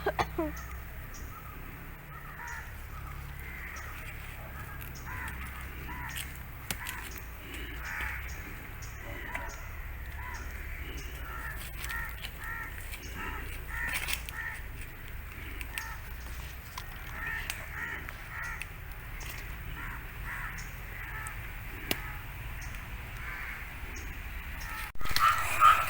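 Crows cawing again and again, call after call, over a faint low steady hum; a louder noise breaks in just before the end.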